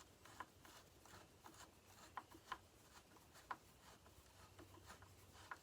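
Faint, sparse clicks and light metal taps of small bolts being handled and tried in a chainsaw's housing, about half a dozen over the few seconds, against near silence.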